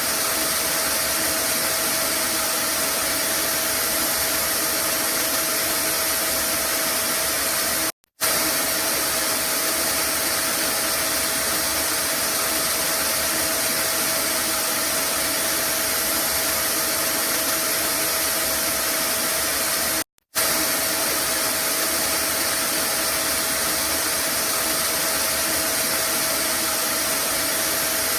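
Vacuum cleaner running steadily, a constant rushing hiss with a steady whine over it. It cuts out for a split second twice, once about eight seconds in and again about twenty seconds in.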